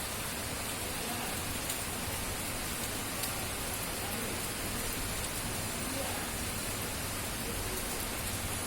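Steady rain falling: an even, continuous hiss with a few sharper drop ticks here and there.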